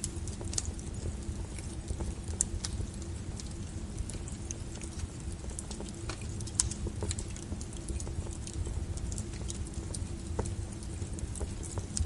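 Wood fire crackling: frequent, irregular sharp pops and snaps over a steady low rumble of burning.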